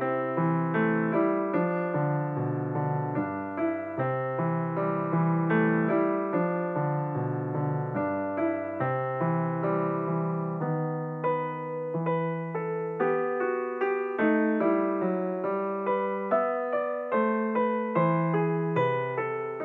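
Background piano music, with single notes and chords struck at a steady, even pace.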